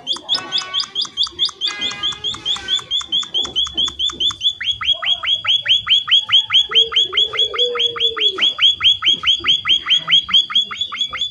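Small finch-type songbird (emprit) calling in a long, fast run of short notes, about four or five a second, each note sweeping downward in pitch; from about four seconds in, the notes drop further and come out louder.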